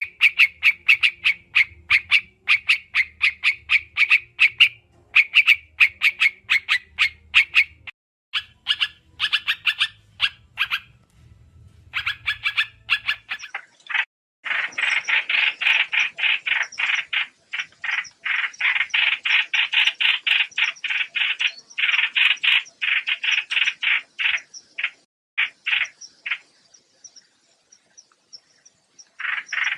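Trao trảo bird calling as a trapping lure recording: rapid runs of short, sharp chirps, several a second, broken by brief pauses and densest through the middle of the stretch.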